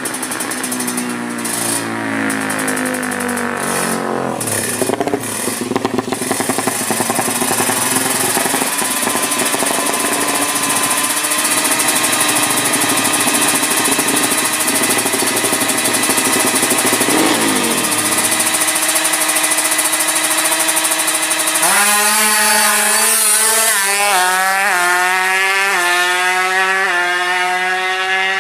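Tuned Yamaha Jupiter drag-bike engine running loud, its pitch sweeping up and down. In the last several seconds it revs in quick, repeated rising sweeps.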